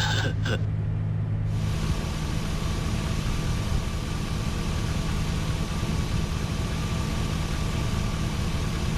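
Chevy Silverado pickup engine idling with a steady low hum. About a second and a half in, a steady rushing hiss with a faint whine joins it and holds.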